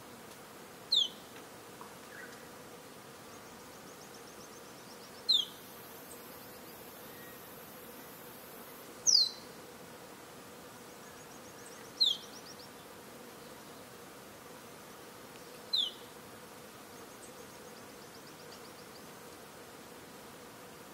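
Rainforest ambience: a steady insect drone with a short, high call that sweeps downward, repeating five times about every three to four seconds, and fainter pulsed trills between the calls.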